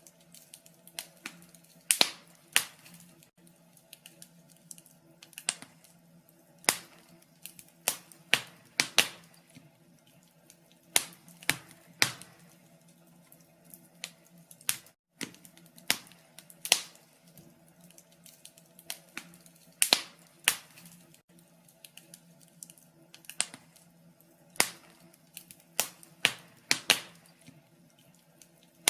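Wood fire in a fireplace crackling: sharp, irregular pops and snaps, about one or two a second, over a faint steady low hum.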